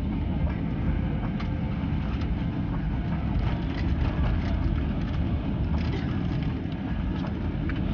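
Steady low rumble inside the cabin of an Airbus A350-900 moving during its landing, with light scattered rattles.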